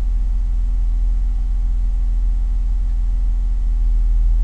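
BMW E34 520i's straight-six engine idling with a steady low drone, still cold shortly after start-up.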